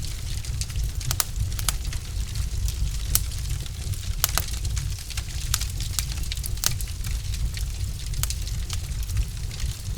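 Wood fire in a fireplace crackling: irregular sharp pops and snaps, a few of them louder, over a steady low rumble of the burning.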